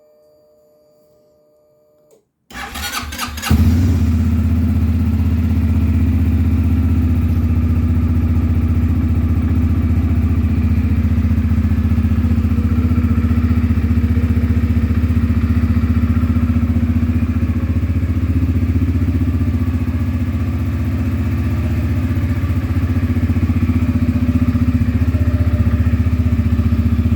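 CFMoto Terralander 450 ATV engine cold-started: the starter cranks briefly about two and a half seconds in, the engine catches within a second and settles into a steady, even idle.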